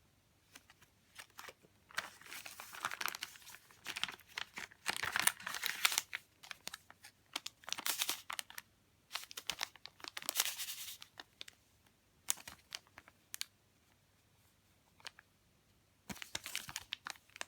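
Paper and plastic sleeves rustling and crinkling as they are handled, in several bursts, with small taps and clicks between them.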